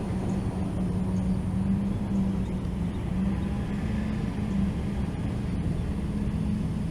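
Motors and propellers of an iFlight Cidora SL5-E 5-inch FPV racing quadcopter buzzing steadily in flight, a single steady hum with low noise beneath it.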